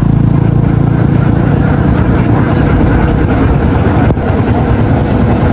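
An engine running steadily with a loud, low drone, with a faint click about four seconds in.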